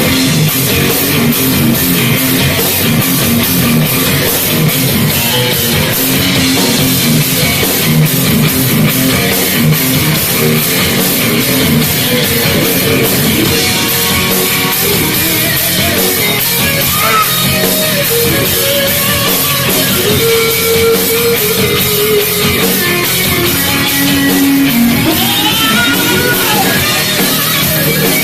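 Live heavy metal band playing: electric guitars over a pounding drum kit, loud and unbroken, with no vocals standing out.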